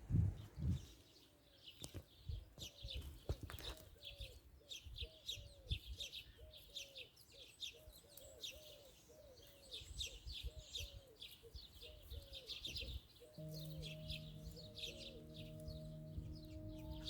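Small birds chirping in quick, continuous runs, with a lower short falling call repeating about twice a second. A few seconds before the end, steady music tones come in under the birdsong.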